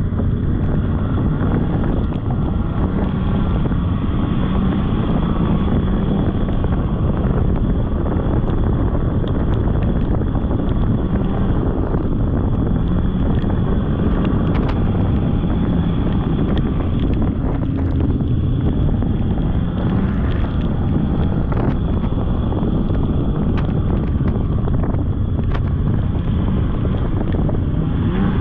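Polaris snowmobile running under way, its engine note rising and falling slightly, with wind buffeting the microphone.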